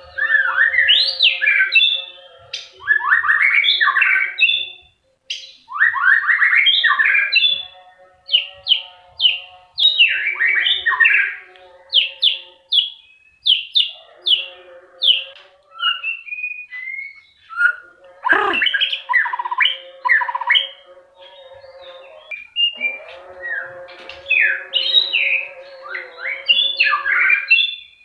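White-rumped shama singing loud, varied phrases of rapid whistles and chirps, with short pauses between bursts. A steady, lower humming tone runs under much of the song, and there is one sharp click about halfway through.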